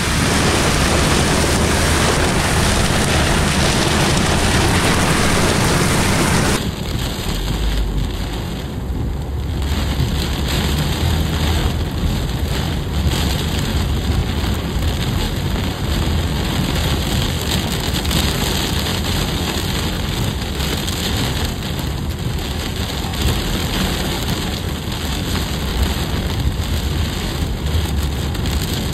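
Torrential, wind-driven rain pelting a moving vehicle's windshield and body, heard from inside the cabin over a low rumble. About six and a half seconds in the sound abruptly thins and drops a little, becoming a dense patter of separate drop hits.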